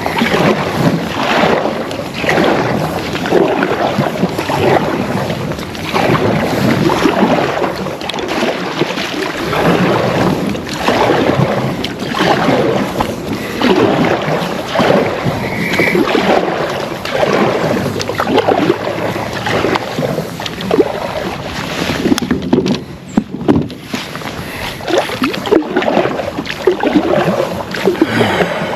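Water splashing and sloshing around a kayak, with wind buffeting the microphone; loud, surging irregularly, with no voices.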